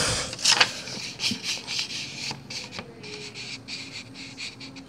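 Handling noises: irregular rubbing and light clicking, like small toy pieces being moved about and scraped against each other.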